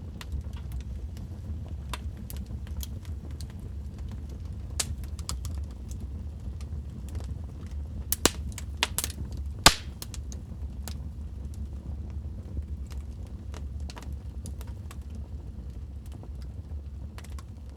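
Wood fire crackling in a fireplace: scattered sharp pops and snaps over a steady low rumble of the flames, with a cluster of louder pops about halfway through.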